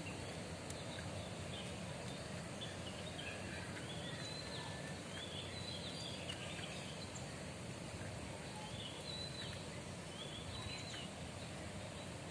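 Birds chirping, with many short, high calls scattered throughout, over a steady low background rumble of outdoor ambience.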